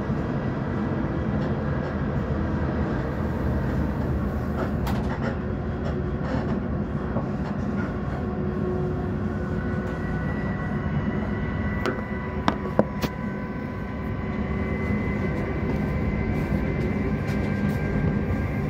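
Running noise of a South Western Railway Class 458/5 electric multiple unit, heard from inside a carriage while in motion: a steady rumble of wheels on the rails with a faint whine that rises slightly in pitch from about halfway. A few sharp clicks come about twelve seconds in.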